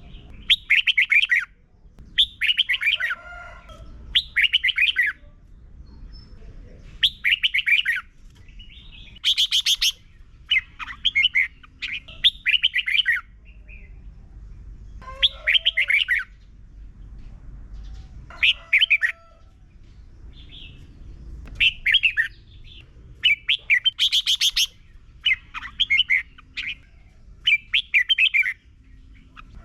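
Red-whiskered bulbul singing its doubled song style: short, fast warbled phrases about a second long, repeated over and over with brief pauses between them, over a faint low hum.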